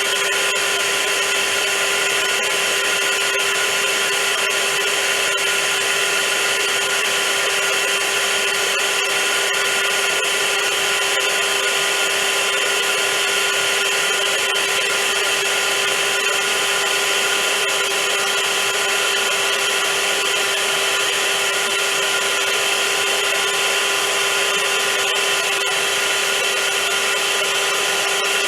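Vacuum cleaner running steadily: a constant rush of air with a steady motor whine, unchanging in level.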